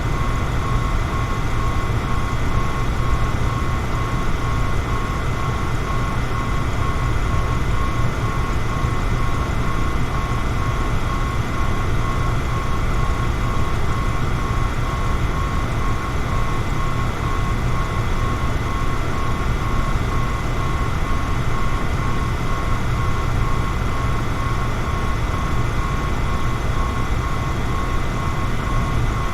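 Electric fan running steadily: a constant whooshing hum with a strong low rumble and a faint steady whine.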